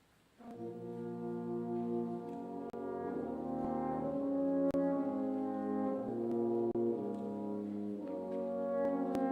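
Brass quintet playing slow sustained chords, beginning about half a second in, with the French horn prominent.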